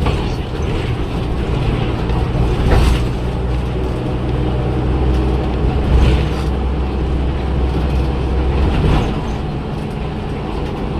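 Cummins ISL Euro 6 300 PS diesel engine of a BS106 city bus running with a steady low drone. A few brief sharp noises come through at about three and six seconds, and about nine seconds in the note changes and it gets a little quieter.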